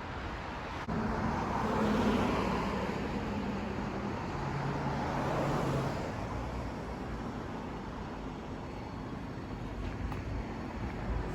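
Road traffic noise: a motor vehicle's engine and tyres swell louder from about a second in, as if a vehicle passes close by, then settle back to a steady traffic hum.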